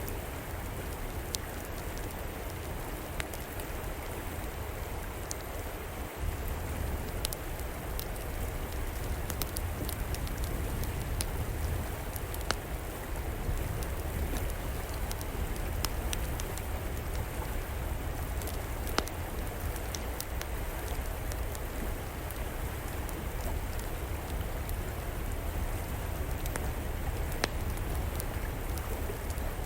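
A flowing river rushing steadily with a deep rumble, and an outdoor wood fire crackling over it in scattered sharp pops and clicks.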